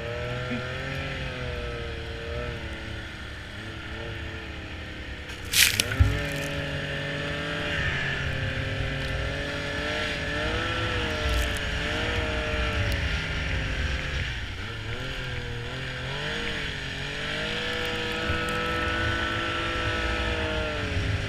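Snowmobile engine running under a rider, its pitch rising and falling with the throttle. A brief loud thump about six seconds in.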